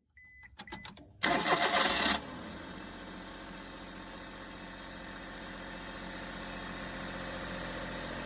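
Daihatsu Hijet Truck engine being started: a few short clicks and beeps, then about a second of loud cranking as it catches, then it settles into a steady idle.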